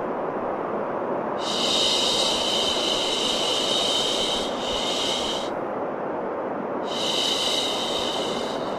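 Baby-sleep white noise: a steady, even hiss, with a higher, brighter hiss that fades in and out in long swells of a few seconds each.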